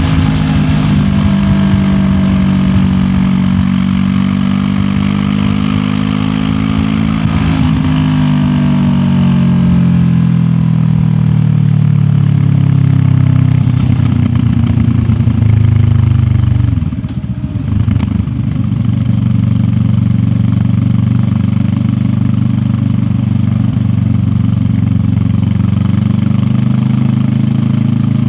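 QJ Motor SRT 700X parallel-twin motorcycle engine running under way. Its note rises over the first several seconds, then falls away slowly, breaks briefly about 17 seconds in, and settles to a steady cruise.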